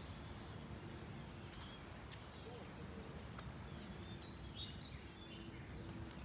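Several birds chirping and calling in short, quick notes over a steady low outdoor rumble.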